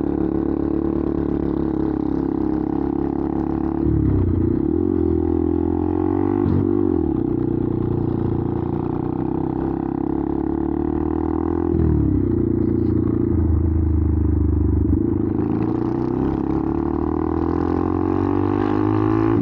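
Benelli TNT 125's single-cylinder engine running through an aftermarket exhaust while the bike is ridden. The engine note drops and climbs again a few times, about four and twelve seconds in.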